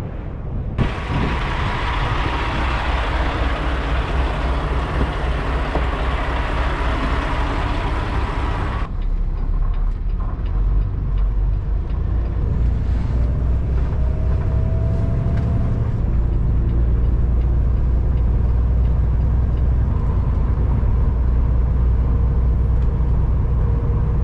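Peterbilt 567 semi truck running down the highway, its engine a steady low rumble. A loud hiss sits over it from about a second in and cuts off suddenly about nine seconds in, and the rumble grows stronger near the middle.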